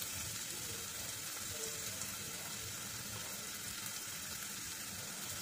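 Chopped onions sizzling steadily in hot oil in a pan, just added and starting to fry.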